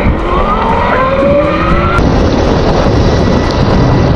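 Wind rushing over the microphone while riding a Sur-Ron electric dirt bike on a wet road, with the motor's whine rising in pitch over the first two seconds as the bike speeds up.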